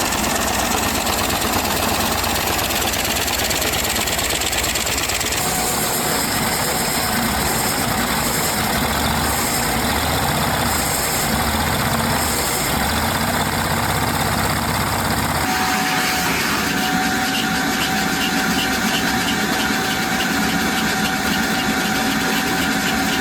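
LEGO boxer-four long-stroke vacuum engine running steadily, with a dense mechanical whir. The sound changes character abruptly about five seconds in and again around fifteen seconds.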